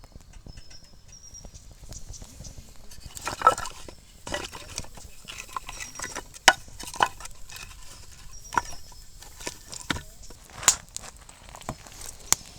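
Wood campfire crackling, with irregular sharp pops of burning wood, a few of them louder.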